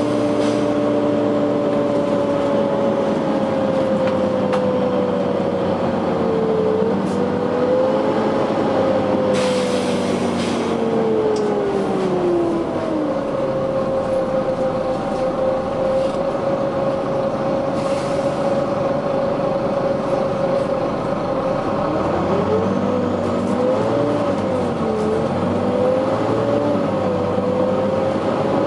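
Volvo B9TL double-decker bus running with a loud, steady whine from its engine and cooling fan. The whine's pitch falls twice and later rises and falls as the revs change. Short hisses of air come in between, about ten seconds in and again more faintly later.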